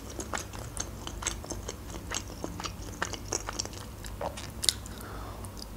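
A person chewing and biting into pan-fried pelmeni (dumplings): a run of small, sharp mouth clicks, with one louder click near the end.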